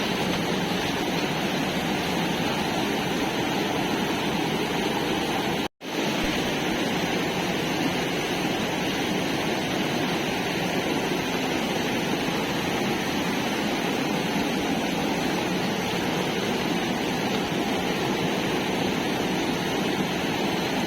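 Steady rush of a fast-flowing, flooded river, with a momentary dropout about six seconds in.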